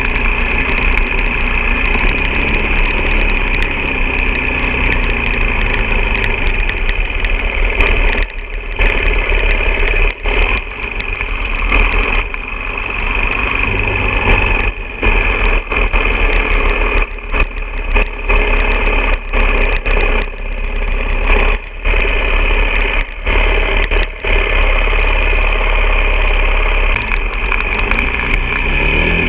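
Off-road motorcycle engine running, its sound dipping and returning again and again through the middle, then rising in pitch near the end as it revs up.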